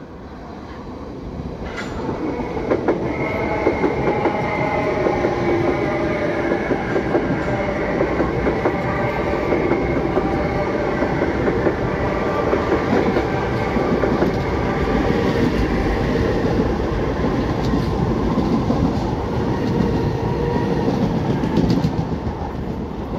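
Electric suburban trains passing on the tracks below, two at once on neighbouring lines: wheels clattering over rail joints and points, with a steady whine of several tones. The sound builds over the first few seconds, holds, then falls away near the end.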